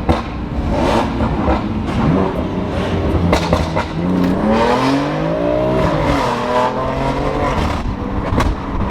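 A performance car's engine revs up, with its pitch climbing about four seconds in, then falls back, over a steady low rumble. Sharp short pops from the exhaust are scattered throughout.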